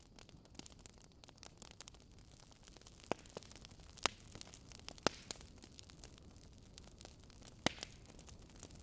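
Wood fire in a fireplace crackling: a steady soft hiss with many small irregular crackles and a handful of louder sharp pops scattered through.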